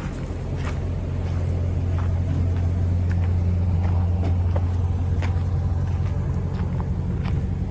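The 2005 Ford F-350 Super Duty's 5.4-litre gas V8 running steadily, a low hum that grows a little louder over the first few seconds and then holds, with scattered light clicks over it.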